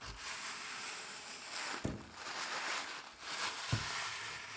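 Aerosol can of rubberized rocker guard spraying in three hissing bursts, each about a second and a half long, with light knocks of the can or mirror between them.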